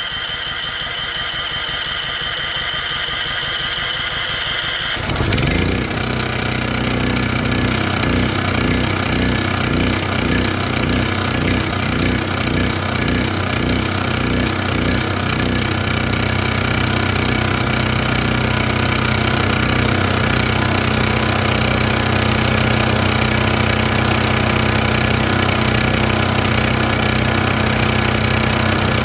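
Champion portable generator's small gasoline engine turning over with a high whine, then about five seconds in it picks up and runs, pulsing unevenly for several seconds before settling into a steady run. This is a start attempt with a freshly fitted spark plug.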